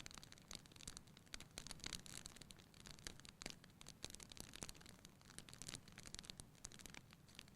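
Wood fire burning in a fireplace: a faint, steady run of irregular small crackles and pops over a low rumble of the flames.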